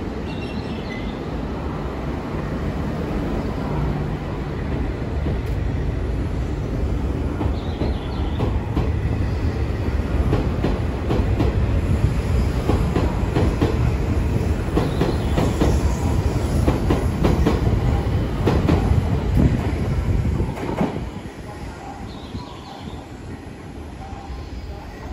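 Akita Shinkansen E6 series seven-car trainset pulling away from the platform and accelerating past, growing steadily louder, with rapid clicking of the wheels over rail joints as it gathers speed. The sound drops away suddenly about twenty seconds in as the last car clears.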